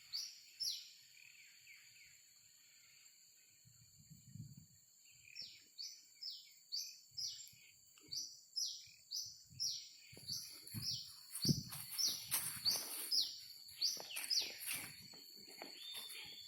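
A bird calling over and over: short, falling chirps at about two a second, coming thicker in the second half, over a steady high-pitched hum. Dull thuds and rustling join in near the end.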